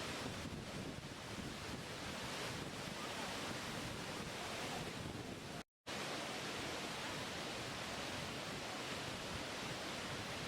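Steady, even rush of a waterfall. About halfway through, it cuts out completely for a split second, then resumes unchanged.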